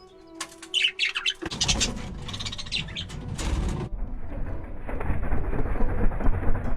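Pet budgerigars chirping in quick, high bursts. About a second and a half in, a low rumbling noise comes in, and about halfway through the chirps stop and only the rumble remains.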